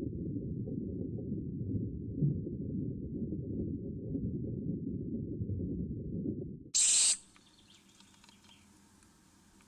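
A muffled low rumbling that stops suddenly, followed near the end by one loud, harsh hissing screech lasting about half a second, from an animal.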